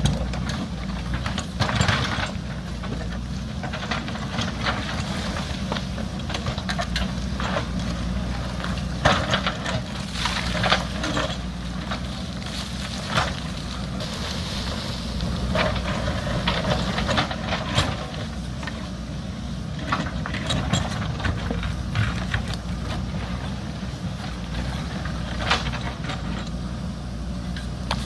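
JCB backhoe loader's diesel engine running steadily, with irregular sharp knocks and scrapes as the machine works against rock and stony ground.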